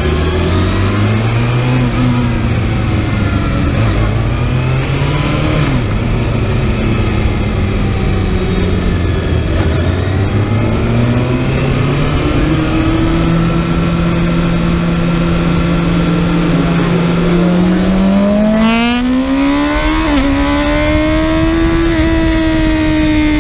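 Kawasaki ZX-6R inline-four sport bike engine, heard onboard, running hard on a racetrack. The engine note climbs and drops again and again as the bike accelerates and changes gear, then falls steadily near the end as it slows.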